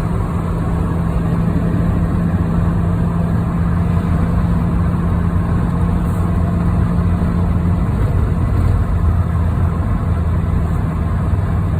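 Steady drone of a car driving at road speed, heard inside the cabin: engine and tyre noise, with a steady hum that drops out about eight seconds in.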